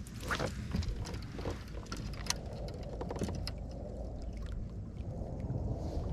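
Steady low rumble of wind on the microphone, with scattered small clicks and taps in the first few seconds.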